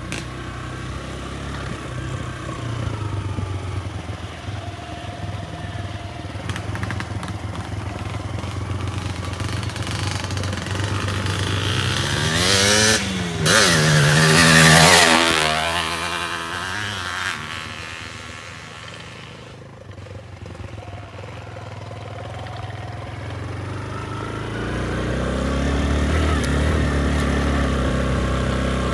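Motorcycle engines running. One goes by close about halfway through, its engine note rising and then falling as it passes. Another engine grows louder near the end.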